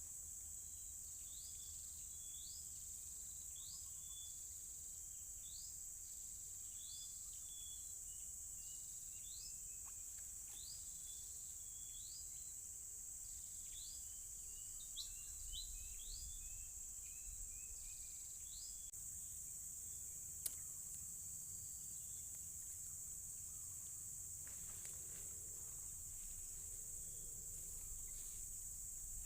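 Steady high-pitched drone of insects, crickets or cicadas, in swampland. Over it a bird repeats short rising calls about once a second, with quicker falling notes in between, fading out about two-thirds of the way through. One sharp click comes soon after.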